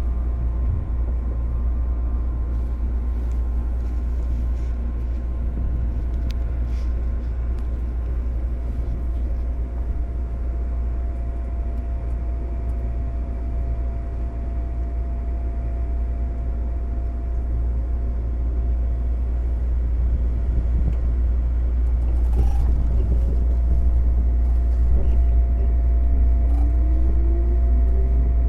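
Running noise heard inside a JR 205-series motor car fitted with MT61 externally-fanned traction motors: a steady low rumble of the train on the rails with a thin steady tone. Near the end a motor whine starts rising in pitch as the train gathers speed.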